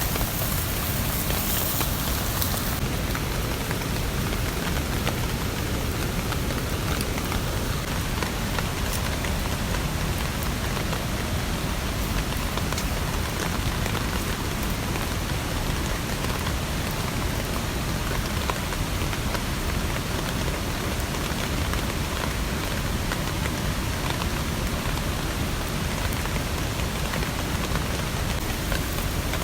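Steady rain, with scattered single drops ticking on a surface. An extra high hiss stops about three seconds in.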